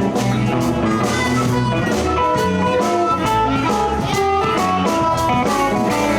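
Live blues band playing an instrumental passage: electric guitar out front over bass, keyboard and a steady drum-kit beat.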